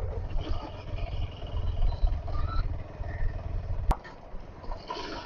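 KTM 250 Adventure motorcycle on the move over a rough track, heard as a low rumble of engine and wind on the rider's microphone. A single sharp click comes about four seconds in, after which the rumble drops.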